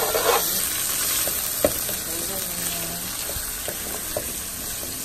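Chopped red onion, green onion and minced garlic sizzling steadily in hot avocado oil in a skillet, while a silicone spatula stirs them and knocks against the pan, once sharply about a second and a half in.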